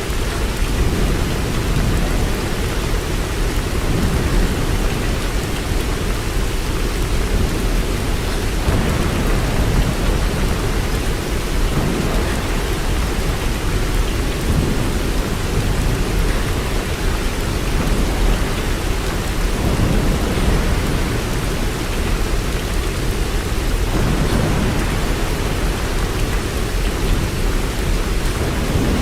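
Steady heavy rain, an even rushing with a deep low rumble underneath that swells and eases slowly.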